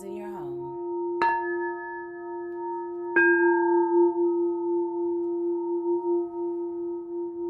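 Singing bowls ringing with a long sustained tone, struck twice more about a second and three seconds in, each strike adding a bright high overtone that slowly fades back into the hum.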